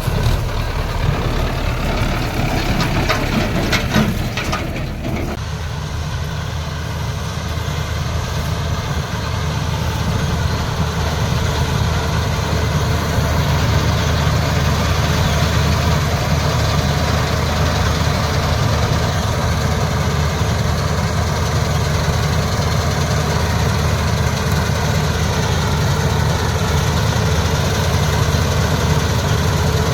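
Combine harvester's diesel engine running steadily, with a brief cluster of knocks and rattles about three to five seconds in.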